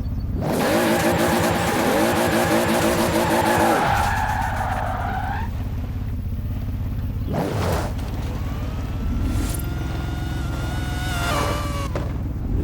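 Toyota Supra RZ's 2JZ-GTE straight-six, converted to a large single turbo, revving hard for about three and a half seconds with a strong rush of turbo hiss over the engine note, then the throttle lifts. Lighter revs follow, with short hisses of air venting about 7, 9 and 11 seconds in, typical of the blow-off valve or turbo flutter.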